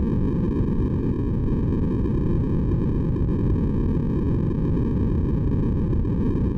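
Steady synthesized white noise for baby sleep: an unchanging deep, dull hiss with most of its energy in the low range and only a thin, faint upper part.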